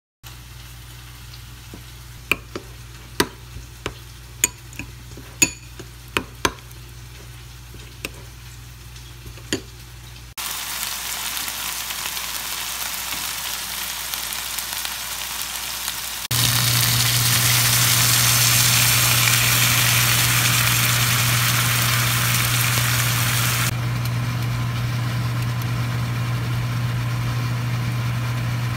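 A metal spoon clinks against a glass bowl about ten times while sauce is stirred, over a steady low hum. About ten seconds in, chicken pieces start sizzling in a frying pan, much louder from about sixteen seconds in, then quieter after about twenty-four seconds, when the chicken is simmering in liquid.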